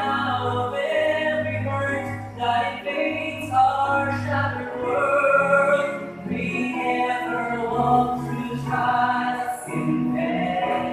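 A Christian song: a singer holding long, sustained notes over instrumental accompaniment with steady low bass notes.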